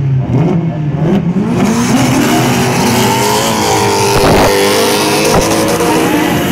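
A pack of drift cars revving hard together as they pull away in a drift train, several engine notes climbing and overlapping. A broad rush of tyre noise joins about one and a half seconds in.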